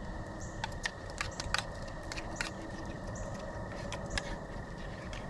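Light, irregular clicks and clinks of a utensil against a metal canteen cup while eating, with a steady low background hiss.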